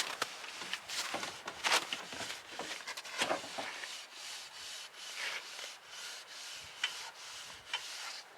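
Irregular rubbing or scraping strokes, several a second.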